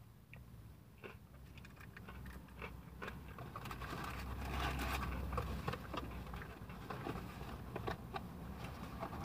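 A person chewing crispy breaded fried chicken close to the microphone, with many small crunches and clicks, louder around the middle.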